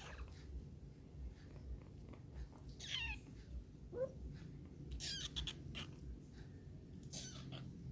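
A kitten mewing about four times in short, high-pitched squeaky calls, one of them falling sharply in pitch; these are a hungry kitten's calls for milk.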